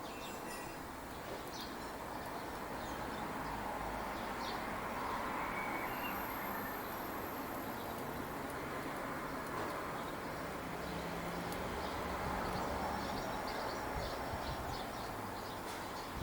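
Outdoor garden ambience: a steady rushing background noise with faint, brief small-bird chirps scattered through it.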